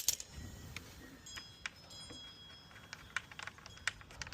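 Scattered light metallic clicks and clinks of hand tools and small radiator parts being handled, with a brief faint metallic ringing about a second and a half in.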